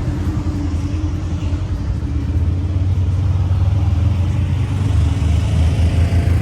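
Steady low rumble of car traffic, an engine drone that runs on without a break.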